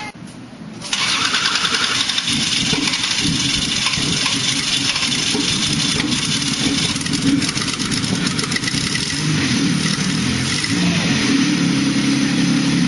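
A car engine on a test stand catches about a second in and runs, rough and uneven at first, then settling into a steadier idle near the end.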